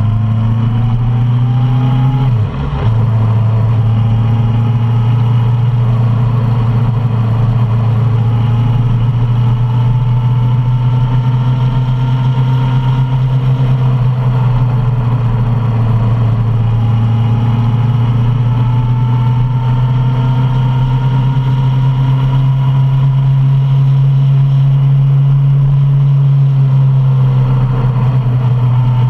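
Suzuki Bandit 650's inline-four engine running steadily while riding, with a brief drop in the engine note about two and a half seconds in.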